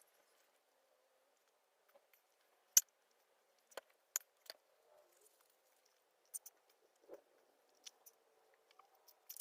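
Sparse small clicks and crinkles of someone eating fast food and handling its packaging, the sharpest about three seconds in, over a faint steady hum.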